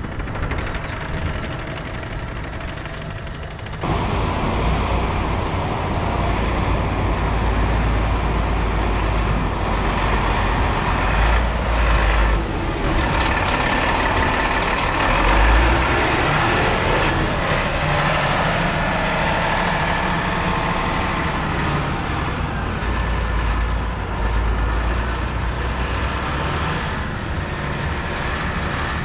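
Volvo A25G articulated haul truck's diesel engine and drivetrain running under way, a heavy, steady rumble. The sound steps up abruptly about four seconds in.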